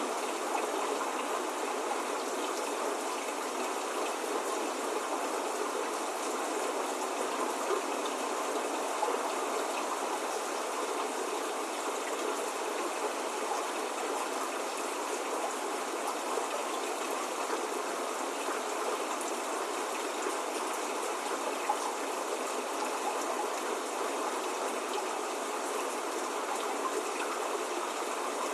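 Steady spring rain falling, an even hiss of many drops with no thunder or birdsong, and an occasional slightly louder drop.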